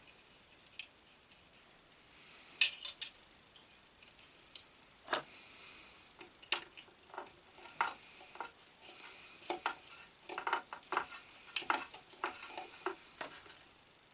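Small hand tools and metal parts clicking and clinking, with short stretches of scraping or rubbing, as wires are worked on and connected.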